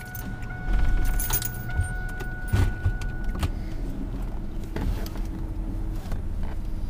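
Inside a car: a steady low rumble with scattered clicks and rattles, and a steady electronic tone that cuts off about three and a half seconds in.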